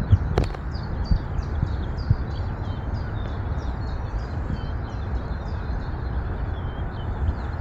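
A small bird chirping in a rapid, continuous run of short high notes over a steady low rumble, with a sharp click shortly after the start.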